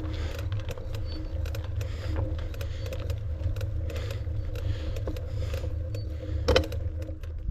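Mountain bike rattling and clicking over rough ground, with a steady low wind rumble on the microphone.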